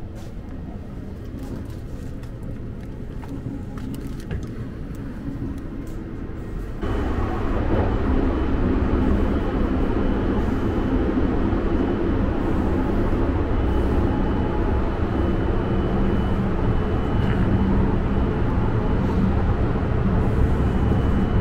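Sunrise Seto 285-series electric sleeper train running, its rumble and running noise heard from inside the carriage. About seven seconds in the noise jumps louder and then holds steady.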